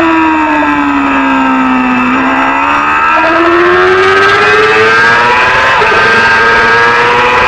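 Supersport 300 racing motorcycle engine running hard. Its note falls for the first two seconds as the bike slows, then climbs steadily and smoothly as it accelerates.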